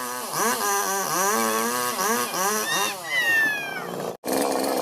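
Two-stroke chainsaw engine revved up and down several times, its pitch rising and falling, then dropping off sharply after about three seconds.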